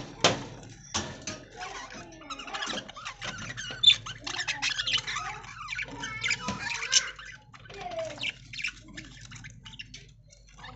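Flock of budgies chattering: many short chirps, squawks and warbling glides overlapping, mixed with small clicks, busier in the first two thirds and thinning toward the end.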